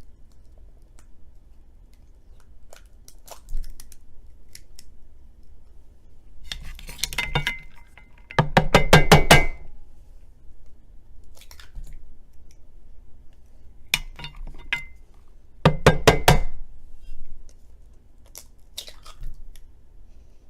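Eggs being cracked by tapping them against the rim of a bowl: short clusters of quick sharp clinks with pauses of several seconds between them, the loudest about halfway through.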